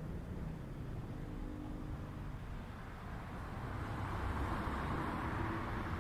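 A car approaching on the street, its tyre and engine noise growing louder over the second half, over a low steady street hum.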